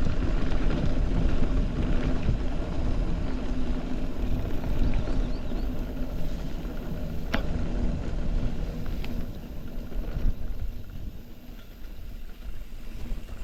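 Mountain bike riding on a rough track: rumbling wind and tyre noise on the camera microphone, with a few sharp knocks from the bike. It eases off over the last few seconds.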